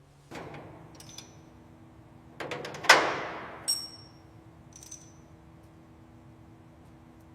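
A short run of metal clanks and clinks: a dull knock, a few light clicks, then the loudest clang about three seconds in, which rings and fades. Two short high-pitched metallic pings follow, with a faint steady hum underneath.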